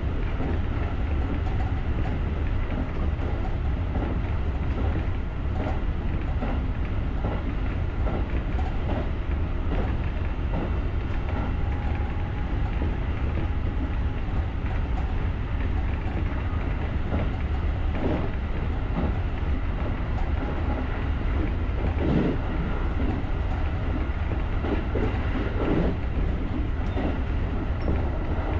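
JR rapid electric commuter train running along the line, heard from the cab: a steady low rumble with scattered clicks and knocks from the wheels on the track.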